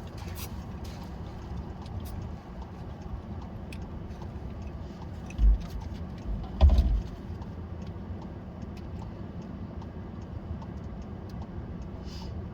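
Steady low rumble of a vehicle, with faint scattered ticks and two short, dull low thumps a little over halfway through.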